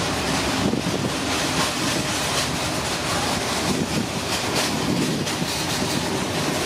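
Norwegian locomotive-hauled passenger coaches rolling past as the train pulls out: a steady rumble of wheels on rail with faint clicks.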